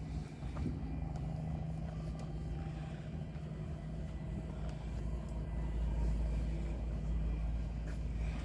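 An engine running steadily with a low hum and rumble, swelling a little about six seconds in.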